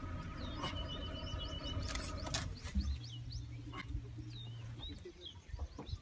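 Birds calling in many short, quick chirps over a low, steady rumble, with a few sharp clicks.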